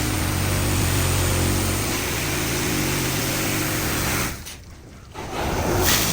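Touchless automatic car wash machine running: a steady rushing noise over a low motor hum. It cuts out for about a second some four seconds in, then resumes.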